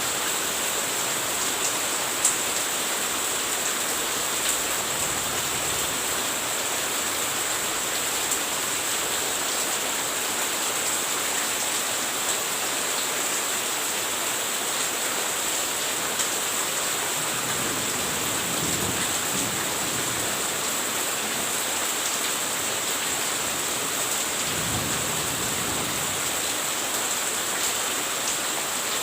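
Steady heavy rain falling, a constant hiss with scattered drop ticks, and two low rumbles of thunder, about 18 and 25 seconds in.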